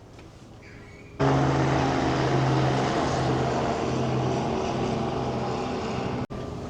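A loud, steady mechanical drone with a low hum, under a hiss of outdoor air, starts abruptly about a second in and cuts off near the end. It is the outside noise heard on stepping onto a balcony at the stern of a large cruise ship.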